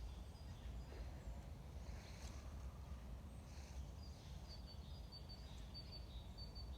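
Quiet forest ambience: a steady low rumble with a few short rustles, and a small bird's run of short, high, thin chirps over the last few seconds.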